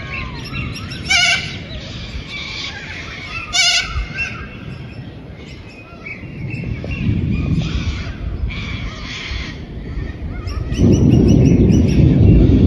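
An animal calling twice with a short wavering bleat-like cry, about two and a half seconds apart, over faint high chirping. A loud low rumble sets in near the end.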